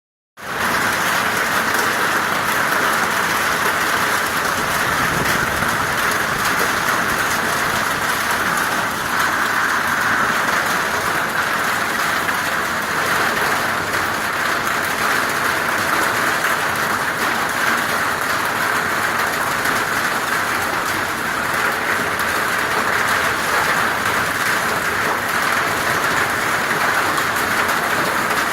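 Hail falling heavily: a dense, steady patter of many hailstones striking hard surfaces.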